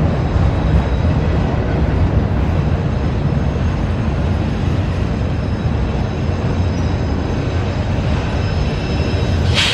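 CSX freight train rolling past close by: a loud, steady rumble of wheels and cars on the rails. A brief sharp, high-pitched squeal or screech comes near the end.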